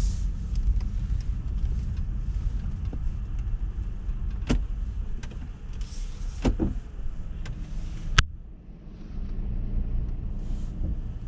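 Automatic tunnel car wash working on a car: a steady low rumble with a few sharp knocks, the loudest about eight seconds in, after which the sound drops quieter.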